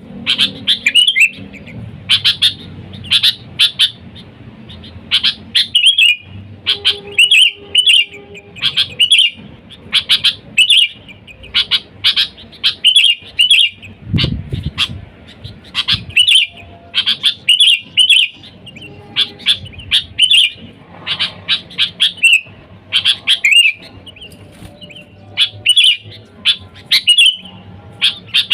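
Sooty-headed bulbul calling: short chirping phrases of several quick notes, repeated about once a second.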